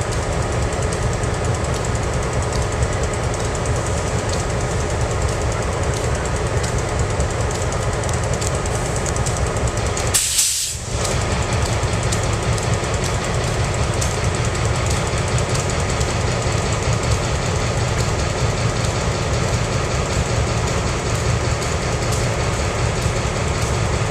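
Diesel locomotive of the East Penn Railroad running close by with a steady, rapidly pulsing engine throb. About ten seconds in there is a brief hiss.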